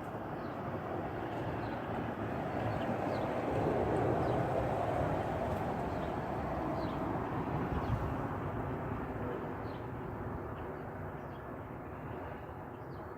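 A distant passing vehicle: a broad rumble that swells to its loudest about four seconds in, then slowly fades away, with faint short bird chirps over it.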